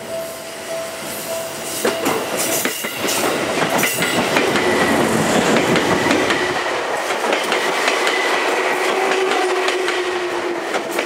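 Seibu 2000 series electric train passing close by, its wheels clacking over rail joints from about two seconds in, then the loud running noise of the cars going past with a steady high whine.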